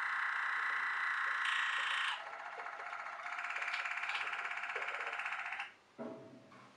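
Waterslager (Malinois) canary singing long rolled tours, each held at an even pitch with a fast trill. The song switches to a new tour about two seconds in and stops near the end.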